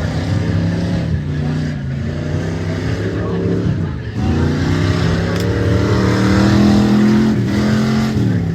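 Racing truck engines running hard under load, their pitch rising steadily, dropping off sharply about four seconds in, then climbing again and dipping near the end, as with gear changes.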